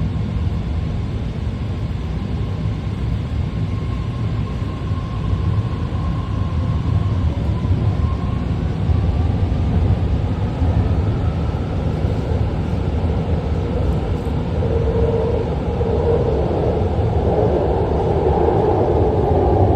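BART three-door train car running on the rails with a steady low rumble, its electric propulsion whine changing pitch as the train slows to arrive at a station.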